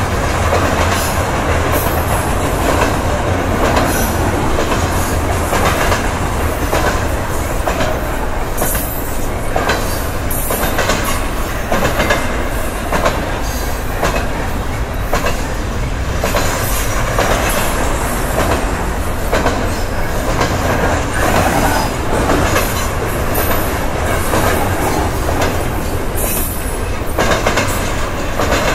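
Double-stack container freight train passing close by: steel wheels rumble steadily and click over the rail joints as the loaded container cars roll through.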